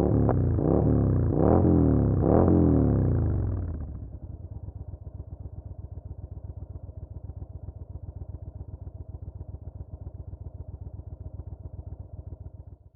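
Yamaha BT1100 Bulldog's air-cooled V-twin, breathing through an Ixil aftermarket exhaust, revved in four quick throttle blips, each rising and falling. About 4 s in it drops back to a steady, evenly pulsing idle.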